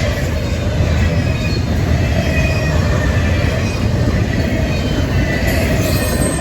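A Norfolk Southern freight train rolling past close by: a steady, loud rumble of wheels on rail, with thin, intermittent wheel squeals coming and going above it.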